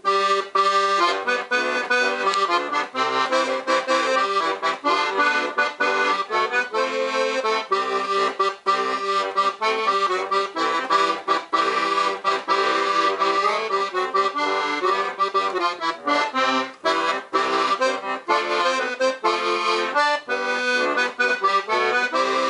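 Weltmeister Monte piano accordion playing a tune on the second of its musette-plus-low reed register combinations: a wet, tremolo-tuned middle-reed sound layered with the low reed, played continuously with chords and a moving melody.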